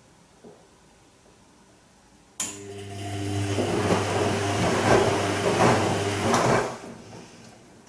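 Bosch Serie 2 VarioPerfect washing machine on its Silk cycle: an electric hum starts suddenly with rushing, splashing water building over it, then stops after about four seconds. This is a brief pump or water-valve phase.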